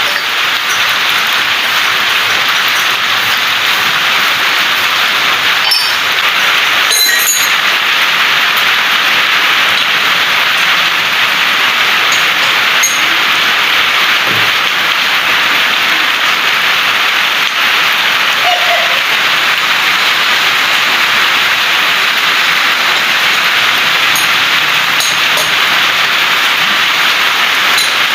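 Steady rain, an even hiss with no rhythm, with a few faint clinks about six to seven seconds in.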